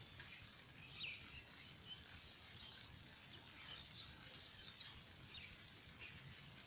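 Faint, steady rain hiss with short bird chirps scattered through it.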